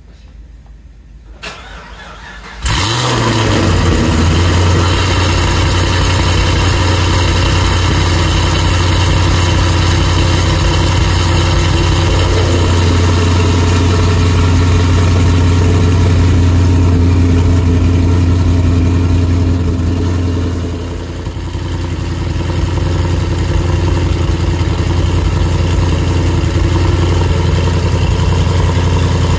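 Car engine starting about three seconds in, catching quickly and settling into a loud, steady idle. Its loudness sags briefly about two-thirds of the way through, then recovers.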